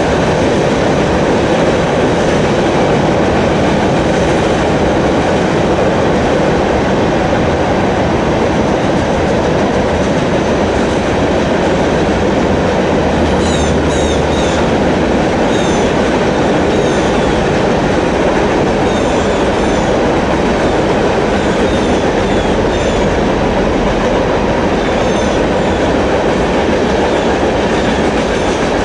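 Train rolling past at close range: a steady loud rumble of wheels on rail with clickety-clack. From about halfway through come short, repeated high squeaks.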